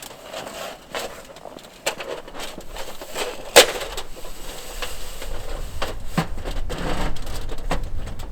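Wooden knocks and cracks, like firewood being handled and broken, with one sharp loud crack about three and a half seconds in. A low rumble comes in over the second half.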